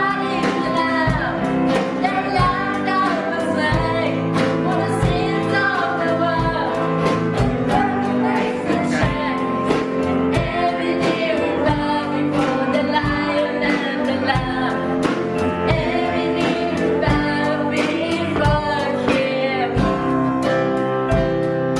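Worship song: singing over strummed acoustic guitar with a steady beat. The voices drop out near the end and the guitar plays on.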